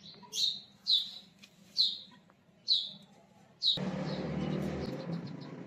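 A bird repeats a short, high, falling chirp about once a second, five times. Just before the end the chirps stop and a steady low hiss with a hum sets in.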